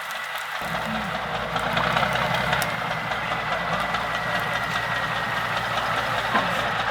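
Diesel engine of an off-road trial truck running. Its low rumble comes in suddenly about half a second in.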